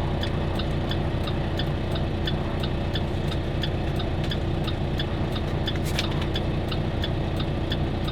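Semi-truck engine running steadily, heard from inside the cab, with a fast, even ticking over it and a brief hiss about six seconds in.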